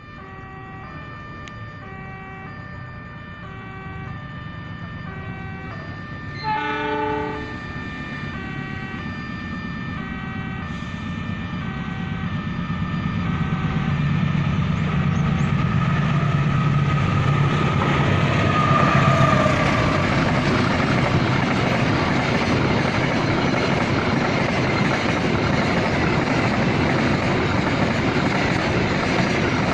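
Repeating two-tone electronic warning signal, like an Indonesian level-crossing alarm, with a short diesel locomotive horn blast about seven seconds in. Then a freight train approaches and passes, its diesel locomotive and wagons making a rumble that builds up and stays loud.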